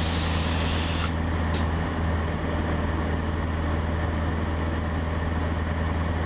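Cessna 150's four-cylinder Continental O-200 engine and propeller droning steadily in the cabin in level flight in the traffic pattern.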